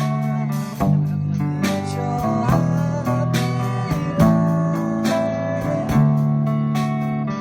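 Rock band playing an instrumental passage: guitar with bent notes over sustained bass notes and drums keeping a steady beat.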